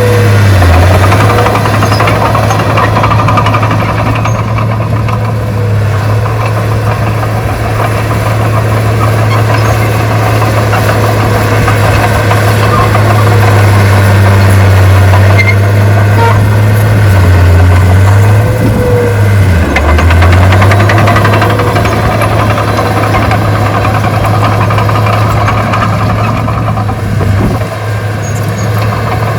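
Heavy earthmoving machine's diesel engine running steadily. Its pitch dips briefly twice, near the start and about two-thirds of the way through, as the engine takes load.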